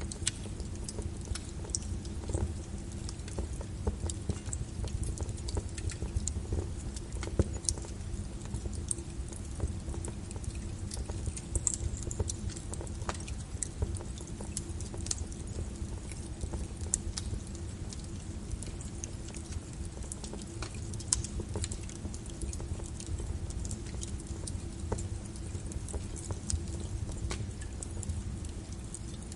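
Wood fire crackling in a fireplace: irregular small pops and sharp snaps over a steady low rumble.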